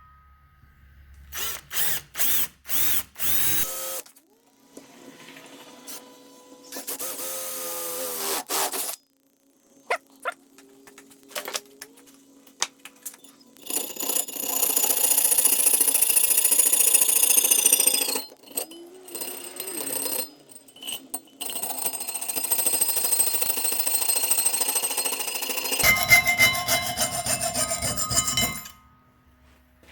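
Electric drill drilling holes in an aluminum plate with a half-inch bit: a few short bursts early, then long steady runs with a high whine, the pitch falling as the motor winds down after one run.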